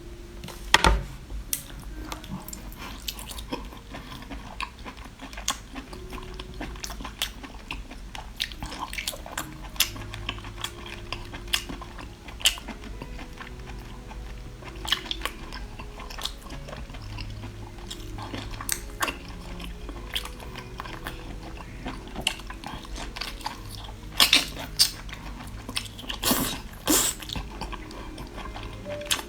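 Person biting and chewing crunchy food, with sharp crunches at irregular intervals and a few louder clusters of bites, over a steady low hum.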